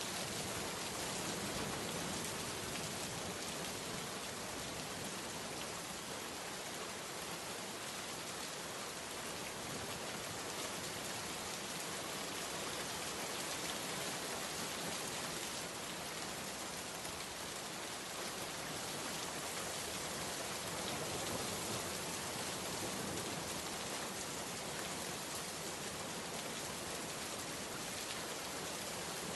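Steady heavy rain falling on surfaces, an even hiss without breaks.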